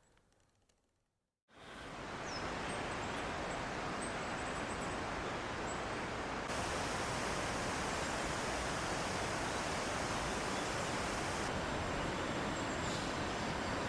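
A steady rushing of flowing water starts suddenly about a second and a half in, with a few faint, high bird chirps above it.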